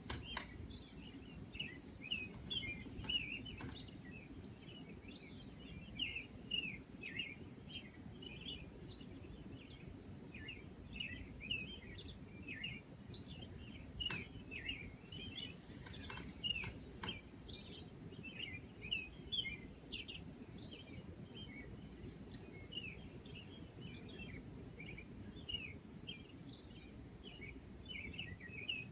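Birds chirping in a dense, continuous chatter of short calls over a steady low background noise.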